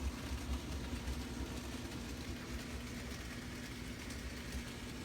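A steady low hum with a constant tone and an uneven rumble underneath, with no distinct events.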